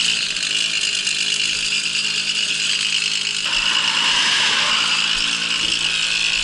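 Babetta moped's 50 cc two-stroke single-cylinder engine running while riding, with a steady mechanical rattle and chatter over the engine note. The sound shifts a little about halfway through.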